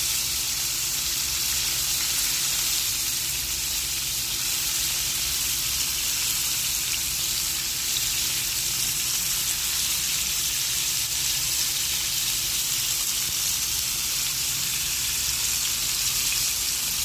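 Flour-coated chicken thigh skewers sizzling steadily in hot oil in a frying pan, with a faint low hum underneath.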